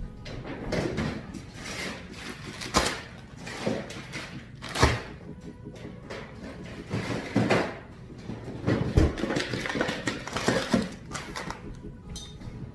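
Kitchen clatter: an irregular string of knocks and bumps as things are handled and set down and doors open and shut, the sharpest knocks about 3 and 5 seconds in.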